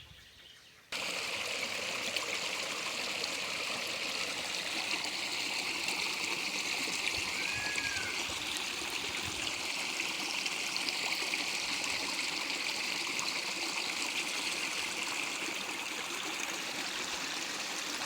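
Steady rush of flowing stream water, starting abruptly about a second in. A single short arched note, like a brief bird chirp, about seven seconds in.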